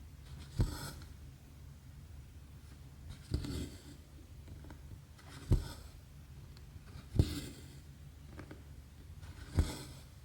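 Needle and embroidery thread pulled through 11-count cross stitch fabric, five stitches about two seconds apart. Each is a short tap followed by a brief swish of thread drawn through the cloth, over a faint steady low hum.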